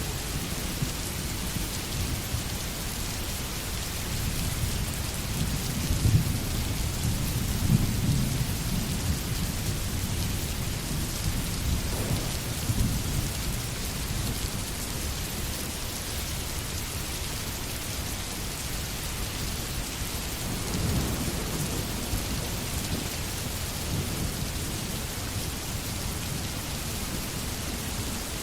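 Steady rain falling, with low rolls of thunder swelling a few seconds in and again about two-thirds of the way through.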